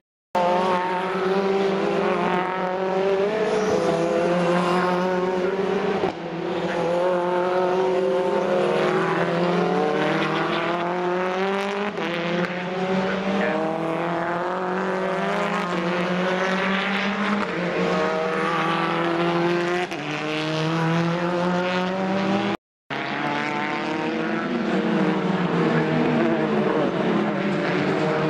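Touring car racing engines at full throttle, their pitch climbing and dropping again and again through gear changes. About 23 seconds in, the sound cuts out for a split second.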